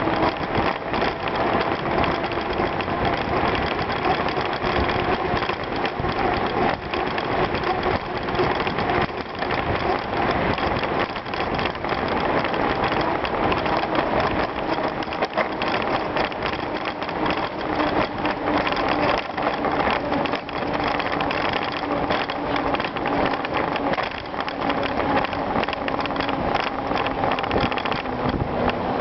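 Bicycle being ridden over a gravel trail: a steady crunching and rattling of tyres and frame, with a faint steady hum underneath.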